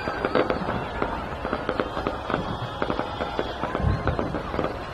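Large fireworks display going off in rapid, irregular pops and crackles, with a deeper thud about four seconds in.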